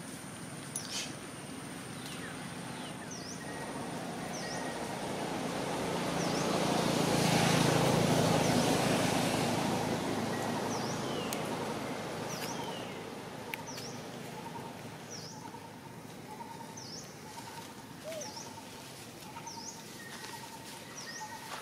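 Wild birds chirping, short high calls repeated every second or two. Beneath them a broad rushing noise swells, loudest about eight seconds in, then fades away.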